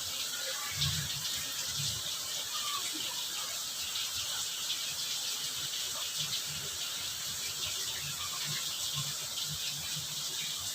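Heavy rain falling: a steady, even hiss of rain with a fine patter throughout and scattered dull knocks.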